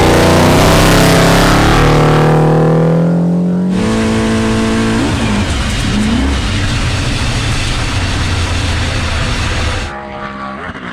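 Big Red 1969 Camaro's big-block V8 racing engine accelerating hard at full throttle, its pitch climbing, with a gear change about five seconds in. Near the end the engine sound drops away suddenly and winds down: the engine has let go, blown in fourth gear.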